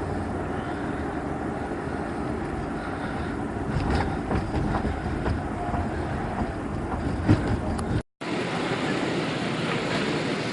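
Steady rumble of a moving vehicle, with a few clicks and rattles about halfway through. It cuts out abruptly about 8 seconds in and returns as a thinner, hissier background.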